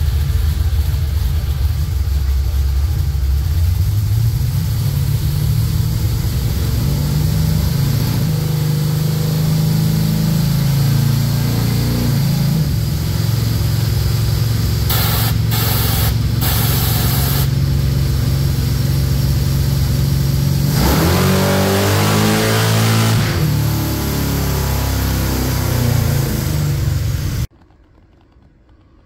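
Chevrolet Malibu's engine making a full-throttle pull on a chassis dyno: the engine note climbs steadily in pitch for most of the run, then falls away as the throttle is lifted and the engine and rollers wind down. The sound cuts off suddenly near the end.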